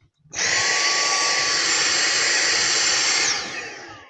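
Vacuum cleaner switched on, its motor running with a steady high whine, then switched off about three seconds later, winding down with a falling whine.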